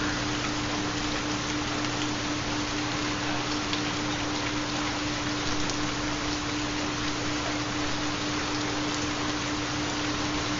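Steady rain-sound recording with a constant low steady tone beneath it, the carrier of a 4 Hz theta binaural beat.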